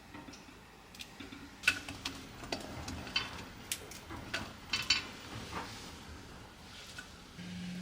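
Kitchen utensils and dishware being handled during cooking: a string of sharp metallic clinks and clatters. Near the end a steady low hum starts up.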